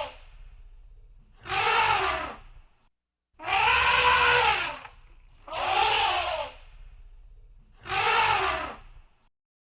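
Elephant trumpeting: four loud calls about a second long, roughly two seconds apart, each rising and then falling in pitch.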